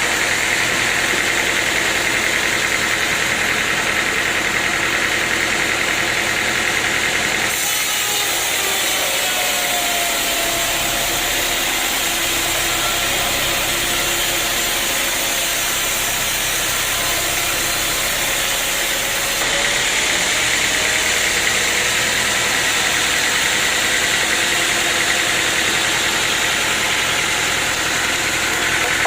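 Sawmill machinery running steadily. From about a quarter of the way in until about two thirds through, a harsher, hissier stretch of the saw cutting through wood sits over the machine sound, then the steady running returns.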